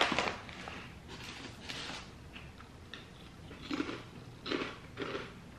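Crunchy cheddar Ritz Toasted Chips (baked crackers) being chewed, with a few short, louder crunches in the second half.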